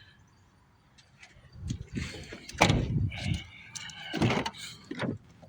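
Irregular knocks and clunks from a small truck's doors or panels being handled, with a brief squeak, starting about two seconds in.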